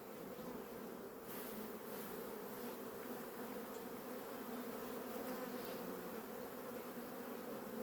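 Honeybee colony buzzing steadily in an open hive, a continuous low hum.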